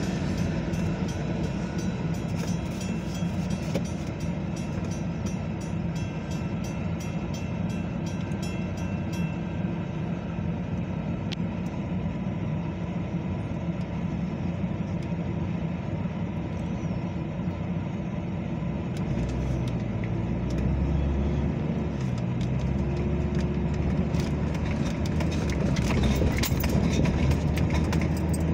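Metra commuter train passing at a grade crossing: steady rumble, with wheels clicking rhythmically over the rails for the first several seconds as the locomotive at the rear goes by, then the sound dies away. From about 19 s in, a deeper car engine and road rumble builds as the car pulls away over the crossing.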